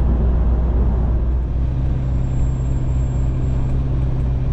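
Road-train prime mover's diesel engine running at cruising speed, a steady low rumble mixed with road noise; a steady engine hum settles in about a second and a half in.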